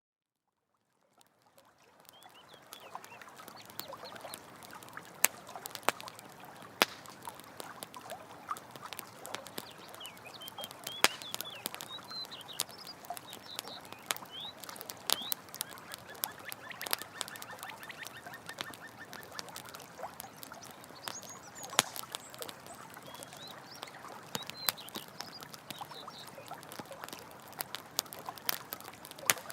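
Campfire crackling with frequent sharp pops over the steady rush of running water, fading in over the first two seconds. Short high chirping calls come and go in the background.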